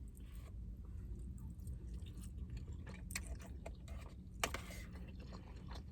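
A person chewing a mouthful of food close to the microphone, with wet mouth clicks and smacks; the loudest smack comes about four and a half seconds in.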